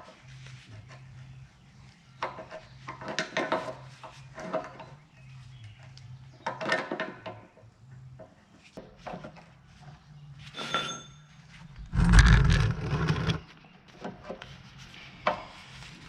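Steel parts being handled and knocked together: irregular clanks and scrapes, one ringing metal strike about 11 s in, and a louder, longer clatter about 12 s in, over a steady low hum.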